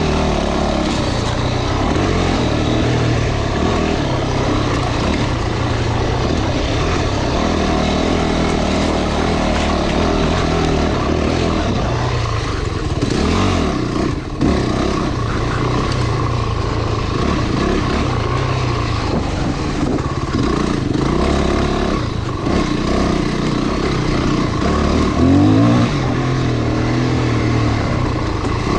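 Off-road motorcycle engine running under load along a dirt trail, its revs rising and falling with the throttle, over a steady rush of noise. The revs climb sharply once near the end.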